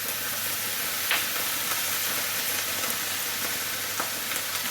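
Sliced onions and chestnut mushrooms frying in a very hot pan: a steady sizzle, with a couple of light clicks, about a second in and near the end.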